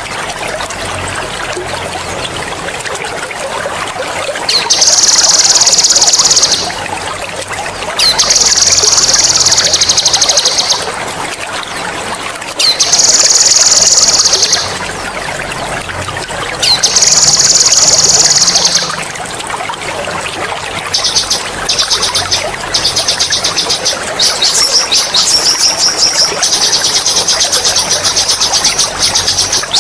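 A songbird's loud, high-pitched rolling trill ("ngerol"), given in four long bursts of about two seconds each, then in shorter choppy trills and a longer trill near the end. Running water trickles steadily underneath.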